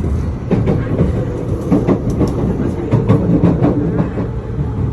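Train running on rails: a steady low rumble with a faint steady hum, and irregular sharp clacks of the wheels over the track.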